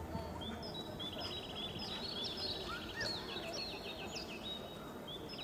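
Small birds singing, with short chirps and several rapid trills of quick repeated notes, over a steady low noisy background.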